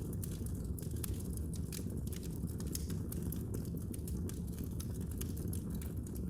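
Wood fire in a fireplace crackling, with many sharp pops and snaps several times a second over a steady low rumble of the flames.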